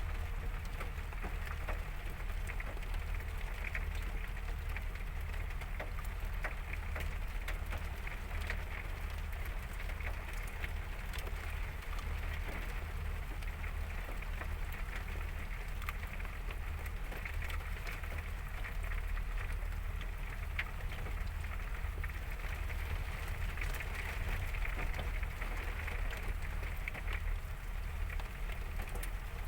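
Heavy rain pouring down: a steady hiss full of fine drop ticks, over a constant low rumble.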